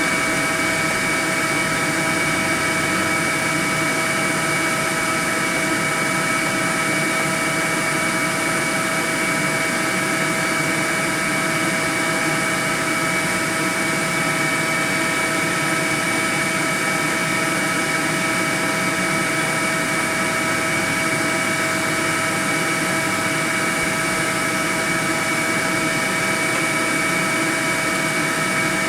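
Honeybee swarm buzzing: a dense, steady hum with a few steady higher tones in it, unbroken throughout.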